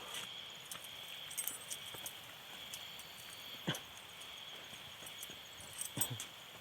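Steady high-pitched drone of insects, with scattered small clicks and a couple of short thuds, one about halfway and one near the end.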